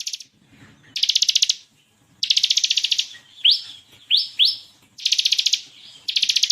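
Bar-winged prinia (ciblek kristal) singing: four rapid, buzzy machine-gun trills (the 'ngebren' song) alternating with short, sharp upswept notes, three of them in a burst near the middle.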